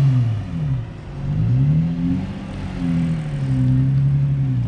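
2005 Infiniti G35's 3.5-litre V6 being revved several times, its engine note falling away, climbing, holding, then climbing again as the throttle is blipped.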